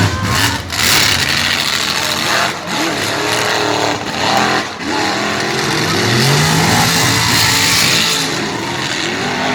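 Mud truck engine running hard and revving, its pitch climbing about six seconds in, over a loud rushing noise.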